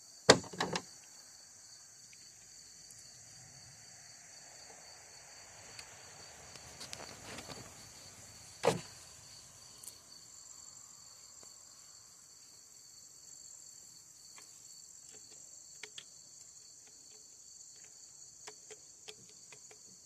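Crickets chirping steadily, with clicks and knocks of tools and plastic chainsaw parts being handled: two sharp clicks in the first second, a louder knock about nine seconds in, and light ticks near the end.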